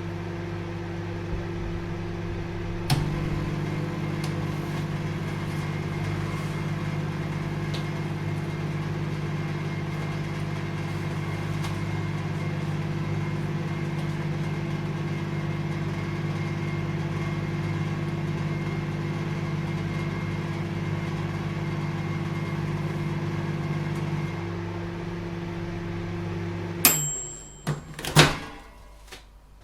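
Microwave oven running with a steady electrical hum. About three seconds in a click brings a fuller, deeper hum, typical of the magnetron cycling on. Near the end the hum stops, followed by a brief high beep and a couple of sharp clicks.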